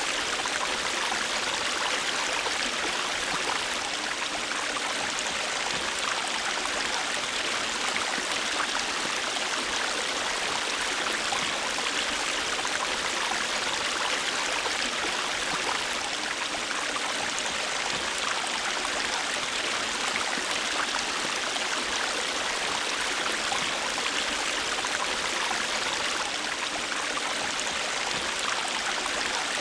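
River water rushing and splashing over rocks in a steady, unbroken hiss.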